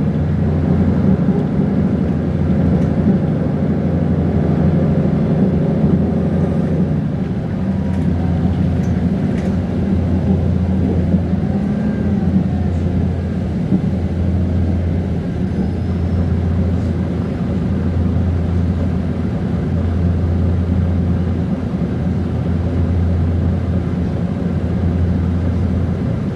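Mercedes-Benz Conecto G articulated bus's OM457LA six-cylinder diesel engine running steadily, its note changing and thinning about seven seconds in.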